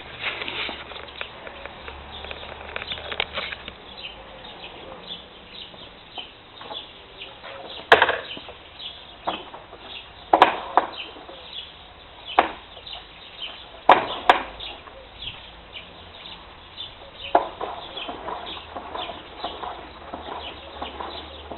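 Strange noise from the front end of a Suzuki GSX-R1000 K7 sportbike: a rapid, uneven run of short high chirps and ticks, several a second, broken by a handful of louder sharp clacks in the middle.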